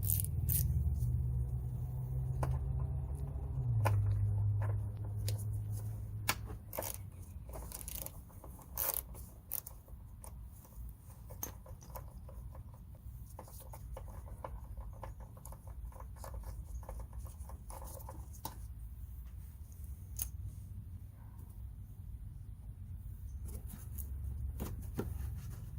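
Hand tools clicking, tapping and scraping at the plastic push-in screws of a car's inner fender liner, in scattered sharp ticks, over a low steady hum.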